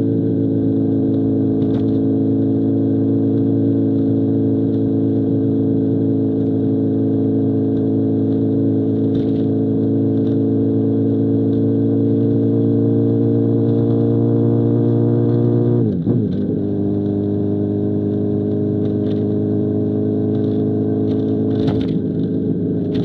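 2005 Honda CBR1000RR's inline-four engine through an SC Project CR-T exhaust, pulling under load with its pitch climbing slowly. About 16 seconds in, the pitch drops sharply in a quick upshift, and the engine pulls on steadily at the lower pitch.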